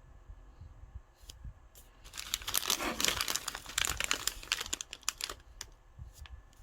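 Crinkling and crumpling for about three seconds, starting about two seconds in, with a few single clicks before and after it.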